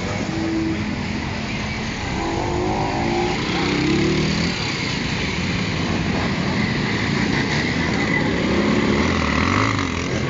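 Motorcycles running and passing in a large caravan, a dense mix of engine and traffic noise with a few short pitched tones rising above it.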